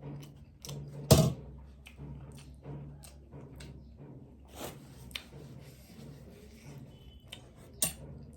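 Close-up eating sounds of a person eating crab: repeated small clicks, smacks and crunches of chewing and shell handling, with a sharp, loud knock about a second in and a smaller one near the end.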